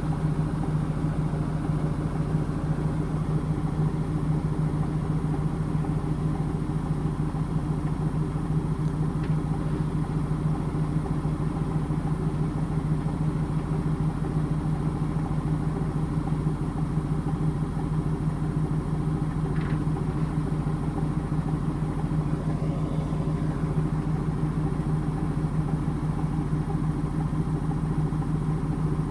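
Indesit washing machine running with a steady motor hum that holds one pitch, with no speeding up or slowing down.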